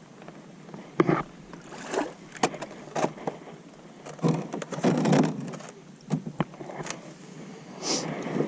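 Kayak on the water: irregular paddle splashes and sharp knocks against the hull.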